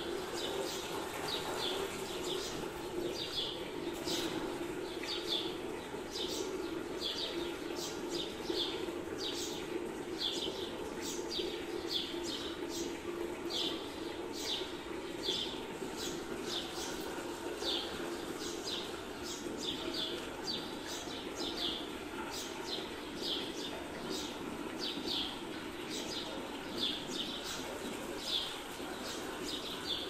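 Small songbirds chirping: short, high chirps repeating every second or so, over a steady low hum.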